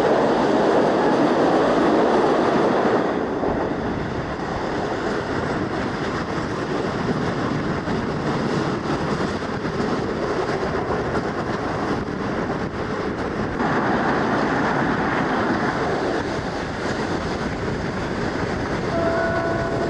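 Running noise of a moving passenger train, heard from an open coach doorway: a dense steady rumble of wheels on rail. It is louder for the first three seconds inside a tunnel, then drops as the train comes out into the open.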